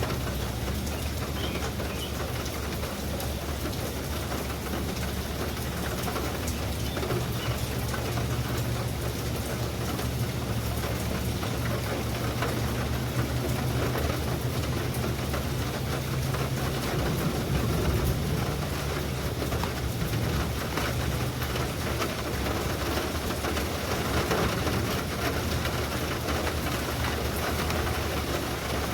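Steady rain falling, an even hiss with no let-up, and a low steady rumble underneath that is strongest through the middle.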